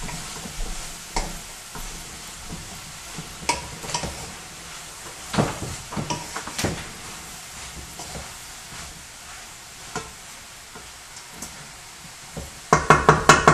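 Wooden spoon stirring chicken gizzards, onion and tomato frying in a pan, over a steady sizzle with scattered scrapes of the spoon against the pan. Near the end, a quick run of loud knocks.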